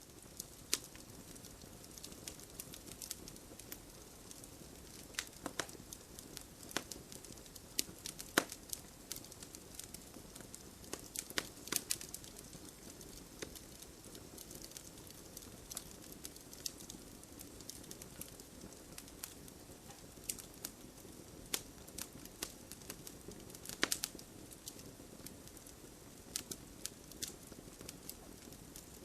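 Campfire burning: irregular sharp crackles and pops of burning wood over a low steady rush of flame, with a louder pop about two thirds of the way in.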